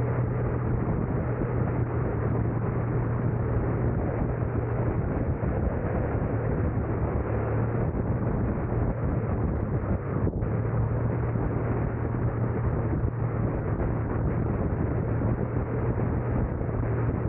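A car driving: steady road and engine noise with a constant low hum.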